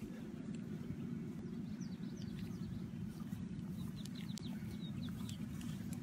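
Faint birdsong, a few quick high chirps about halfway through, over a steady low rumble.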